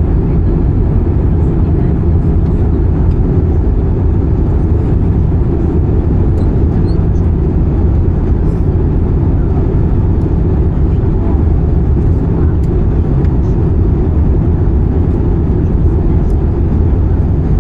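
Airbus A320-214 cabin noise in flight: a steady rumble of airflow and CFM56 engines.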